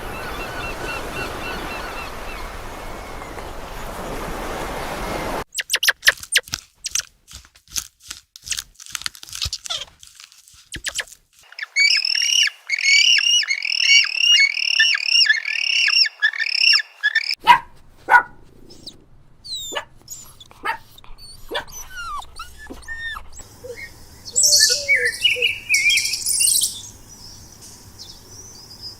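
A sequence of short animal-sound clips: a steady noisy hiss, then a run of sharp clicks, then a bird chirping in quick repeated notes, followed by scattered short calls and a burst of high chirping near the end.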